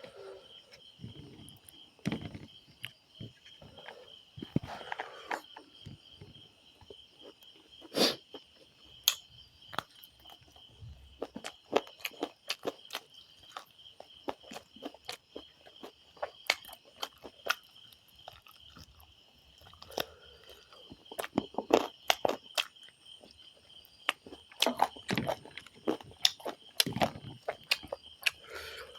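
A person eating rice and chicken curry with close, mouth-level sounds: chewing, crunching and biting, with scattered clicks and taps throughout. A steady pulsing insect chirring, like crickets, runs underneath.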